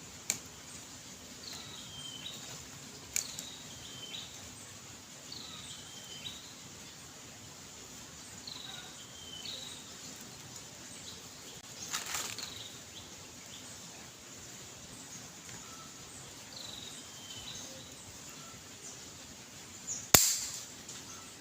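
Single sharp crack of an air rifle shot near the end. Before it, a small bird repeats a short falling call every second or so, with a few faint clicks.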